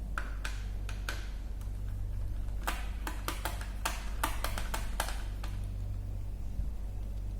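Sharp clicks and taps of tools and plastic laptop parts being handled during disassembly: a few in the first second, a busier run in the middle, then a pause. A steady low electrical hum runs underneath.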